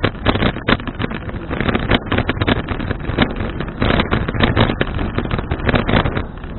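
Wind buffeting an action camera's microphone on a moving bicycle: a loud rushing noise that surges irregularly.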